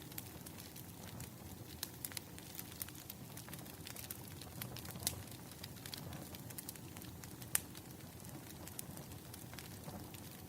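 Firewood burning with irregular sharp crackles and pops over a low steady rumble.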